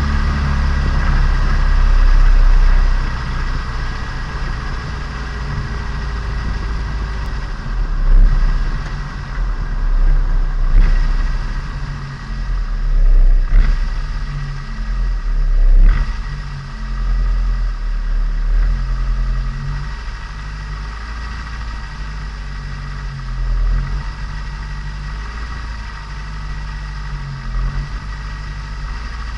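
Turbocharged Nissan Micra engine and exhaust heard onboard while the engine is being run in. The revs rise and fall in several surges of throttle in the middle, then the engine runs more steadily.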